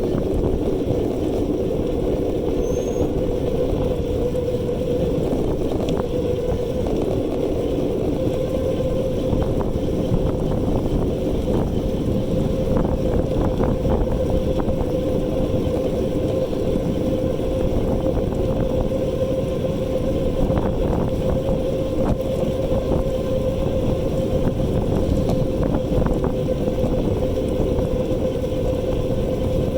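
E-bike ride: the electric motor whines at a steady pitch over constant wind and road rumble, with occasional light rattles.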